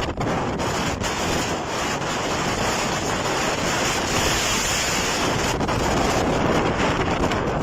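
Storm wind blowing hard and buffeting the microphone in a loud, steady roar.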